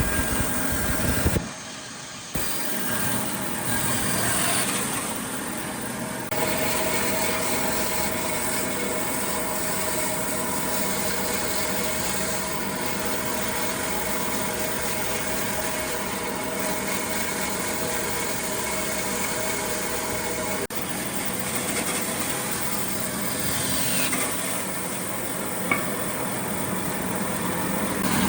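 Motor-driven woodworking power tool running steadily as it works wood, dropping off briefly about a second and a half in before running on.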